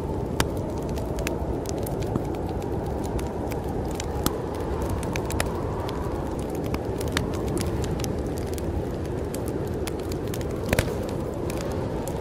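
Wood fire crackling, with frequent small snaps and a few louder pops, over a steady low rush of storm wind.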